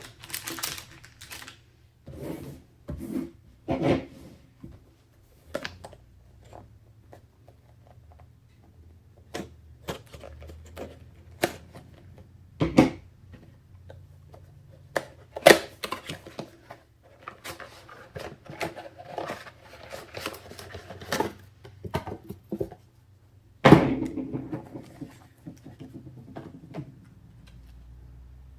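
Hands handling computer parts and their packaging on a bench: irregular clicks, taps and knocks with short rustles between them, the sharpest knock near the end.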